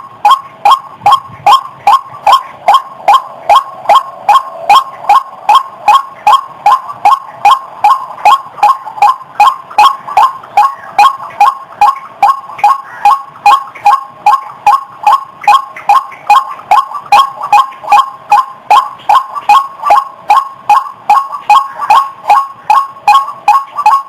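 White-breasted waterhen calling: a loud, rapid run of short, harsh repeated notes, about two a second, held in an even rhythm.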